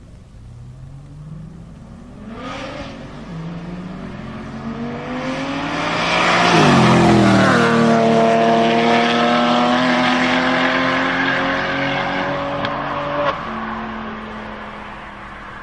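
BMW 1 Series M Coupe's turbocharged straight-six with a modified exhaust, accelerating hard past: the engine note climbs as it approaches, is loudest with a sharp drop in pitch as it passes about seven seconds in, pulls on rising through the revs, then a gear change with a short crack about thirteen seconds in before it fades away.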